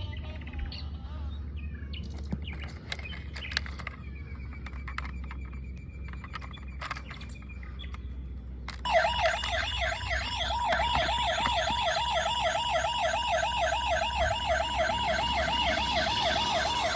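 A battery-powered toy car's electronic siren switches on about halfway through and plays a fast warbling wail, about three cycles a second, after several seconds of light plastic clicks and rattles from the toys being handled.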